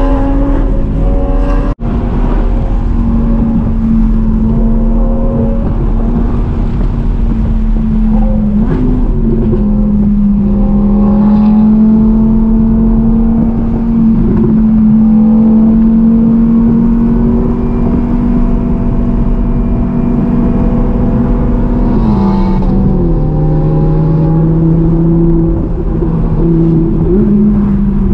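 Car engine droning at a steady pitch while driving, with road and wind noise under it. The engine note drops about two-thirds of the way through, then climbs again near the end.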